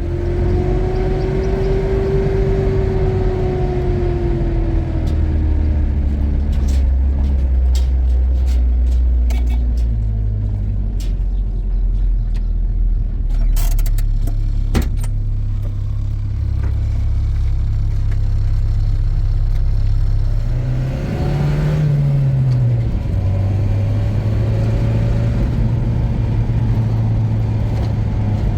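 Car engine running while driving, a steady low rumble whose pitch shifts with speed, with a few sharp clicks about halfway through.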